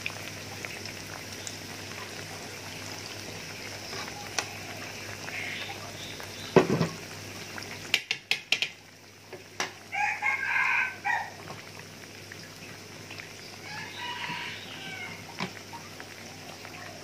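Battered sweet potato strips frying in a pan of hot oil, a steady sizzle. A bird calls in the background about ten seconds in and again more faintly around fourteen seconds. There is a short loud knock near seven seconds, followed by a few clicks.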